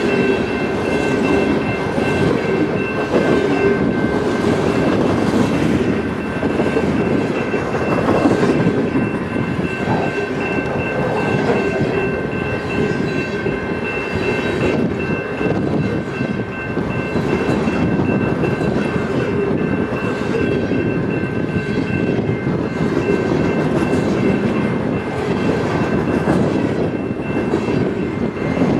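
Railroad cars rolling past, their wheels clicking over the rail joints, with a steady high whine over the rumble.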